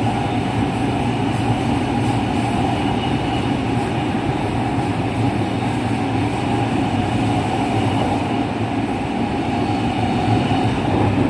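JR West 207 series commuter train running at steady speed, its rumble carrying a steady tone from the original, unchanged traction motors.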